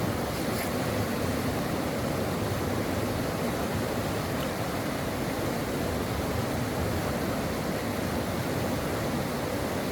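A mountain stream flowing over rocks: a steady, even rush of running water.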